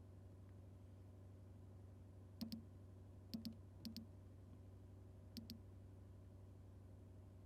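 Four quiet double clicks at irregular intervals, like buttons or switches being pressed and released, over a faint low steady hum.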